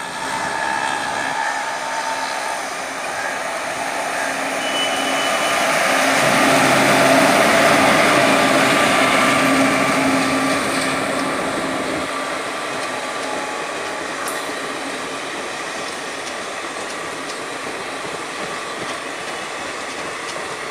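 An electric locomotive hauling passenger coaches passes close by: the noise builds to its loudest about seven to eight seconds in as the locomotive goes past, then settles into the steady sound of the coaches' wheels rolling along the track.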